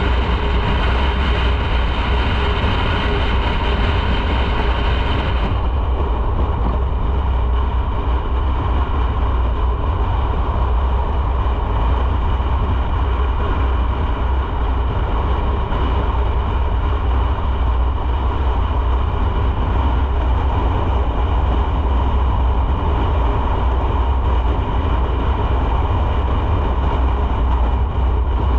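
Motorcycle on the move: a steady low engine rumble with wind and road noise, turning duller about five seconds in.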